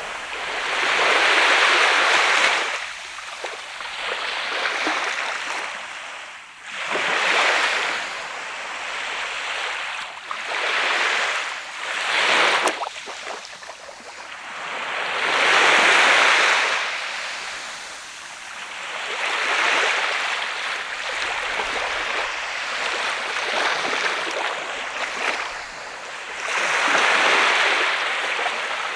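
Waves breaking and washing up a sand beach, one surge every few seconds, rising and falling. The loudest surges come about a second in, about halfway through, and near the end.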